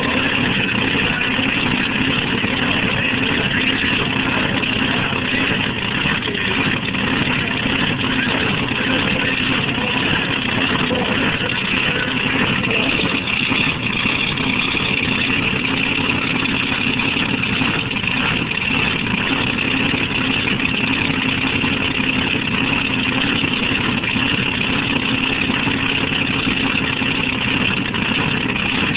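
A two-wheel-drive pulling truck's engine running loud and steady, holding nearly one pitch without clear revving up or down.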